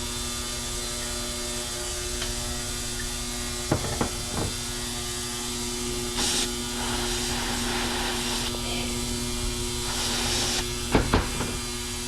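Aerosol carb or brake cleaner hissing in short sprays between about 6 and 10.5 seconds in, onto a stuck carburetor fuel shut-off solenoid, with a few sharp clicks of handling around 4 and 11 seconds. A steady electrical hum runs underneath.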